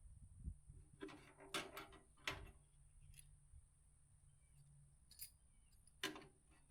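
Mostly near silence, with a few faint, scattered clicks and knocks: large metal washers being handled and test-fitted on a bolt.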